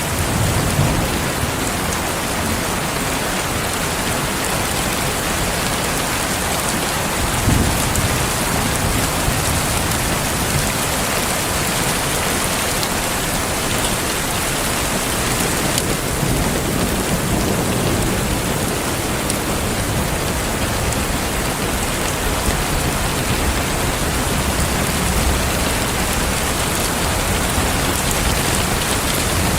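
Heavy rain falling steadily, with a few low rumbles of distant thunder.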